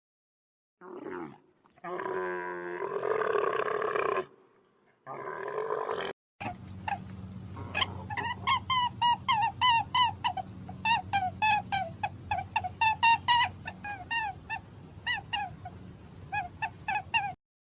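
Animal calls: three drawn-out pitched calls in the first six seconds, then a long run of short, high calls that bend in pitch, several a second, stopping just before the end.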